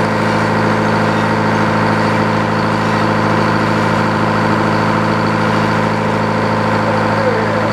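Sawmill engine running steadily with the band blade spinning, an even hum that holds at one pitch.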